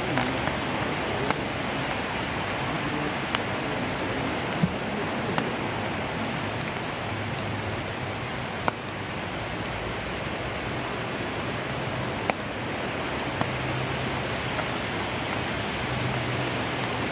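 Steady rain falling on grass, with single drops ticking sharply now and then. A low hum comes and goes underneath.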